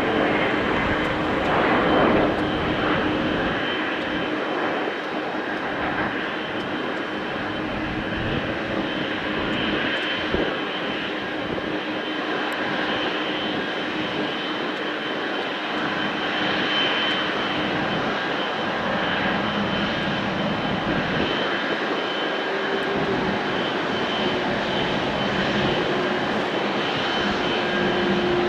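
Jet engines of a Boeing 777-300ER, its GE90 turbofans, running steadily: a continuous rush with several steady whining tones, the lowest of which shifts slightly higher after about 23 seconds.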